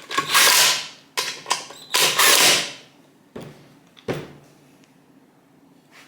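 Metal motorcycle parts being handled and set in place: scraping and clatter in the first few seconds, then two separate knocks about three and a half and four seconds in.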